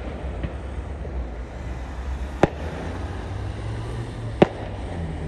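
Aerial firework shells bursting: two sharp bangs about two seconds apart, over a steady low rumble.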